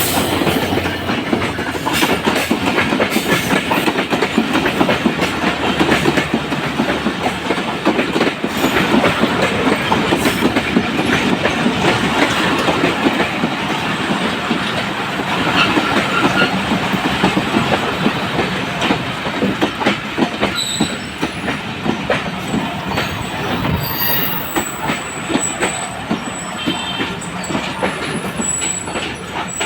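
A Bangladesh Railway passenger train's coaches running past, their wheels clattering over the rail joints, with thin high squeals in the last third.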